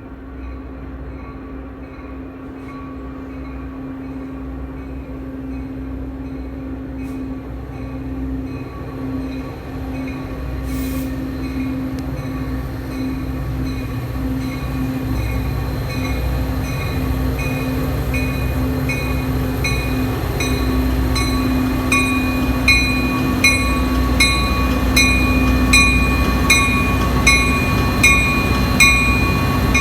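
Metra commuter train approaching and pulling into the station, its rumble growing steadily louder. A bell rings at an even pace throughout, loudest near the end as the train arrives.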